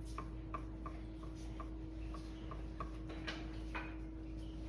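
Light, irregular tapping and ticking of a paintbrush and painting supplies on a work table, about two or three small taps a second, over a steady low hum.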